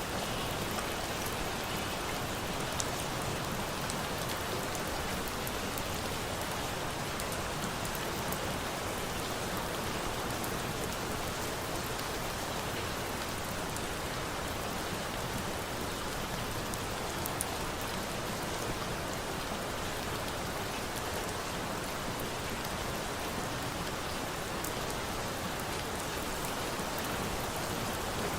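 Steady rain falling and pattering on a surface, an even hiss with scattered faint sharp ticks.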